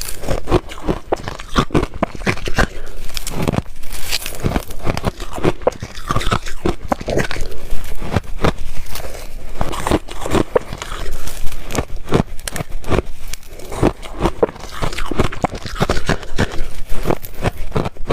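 Ice being chewed close up: a steady run of sharp cracking and crunching as the ice breaks between the teeth.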